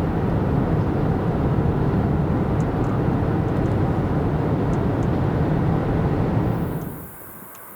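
Freight train rumbling past close by: a loud, steady low rumble that cuts off abruptly about seven seconds in, leaving a much quieter background with a faint high hiss.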